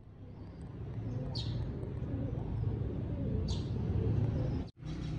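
A low, steady background rumble with two short, high, downward-sweeping bird chirps, about two seconds apart. The sound drops out for an instant near the end.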